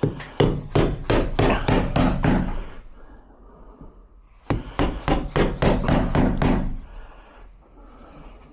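Two runs of quick hammer blows on wood, about four a second, each run lasting about two seconds with a pause of about two seconds between, as the wooden door is worked for the lock fitting.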